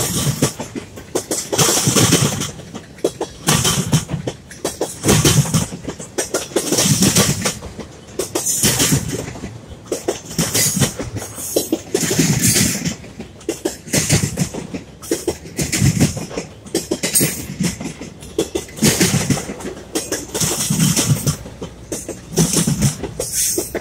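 Intermodal freight train passing close by, its steel wheels clanking over rail joints in repeated loud bursts about every one to two seconds over a steady rumble. The rail moves up and down under the wheels, which the onlooker takes for worn track that needs replacing.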